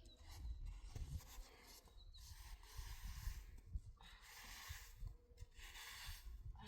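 Faint rustling and scraping in several stretches of a second or two each.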